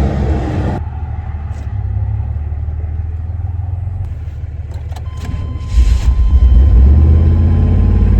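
1990 GMC 1500 pickup engine starting on a jump start: a few clicks, then the engine catches suddenly about two-thirds of the way in and runs with a loud, steady rumble. Early on a running engine's rumble drops away abruptly under a second in.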